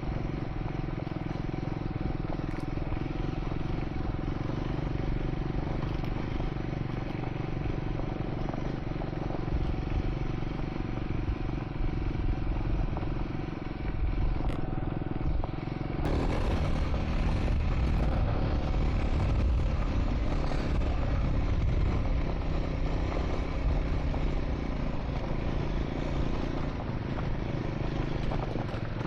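Triumph Scrambler 400 X's single-cylinder engine running steadily while riding on a dirt track, with light clatter from the rough surface. About sixteen seconds in the sound becomes fuller and a little louder.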